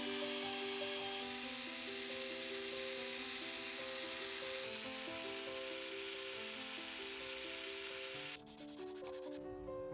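Steady abrasive rubbing, as in hand sanding or filing, under background keyboard music; the rubbing cuts off suddenly a little over eight seconds in.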